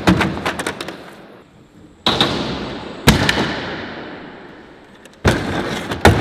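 Three loud slams of a heavy Bird electric scooter landing on skatepark concrete, about two, three and five seconds in, each followed by a rolling rumble of its wheels that fades away.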